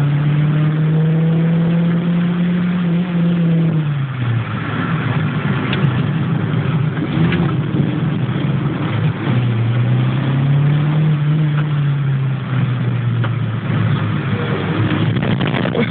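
Toyota Celica's engine heard from inside its stripped-out cabin while being driven, the note climbing as it accelerates, dropping sharply about four seconds in, then climbing and falling off again twice.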